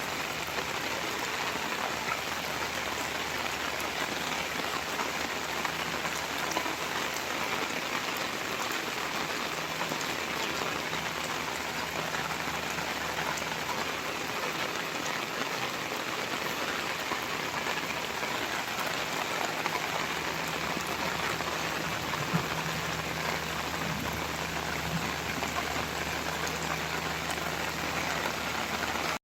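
Steady rain falling and pattering on surfaces, an even hiss that keeps up without a break.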